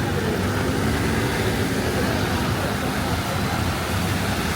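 Steady city street noise in heavy rain: a continuous wash of rain mixed with passing road traffic and a vehicle engine.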